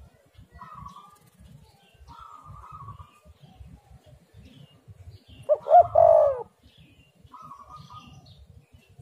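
Spotted dove cooing: one loud phrase of a few coo notes about two-thirds of the way through, with fainter short bird calls before and after it over a low background rumble.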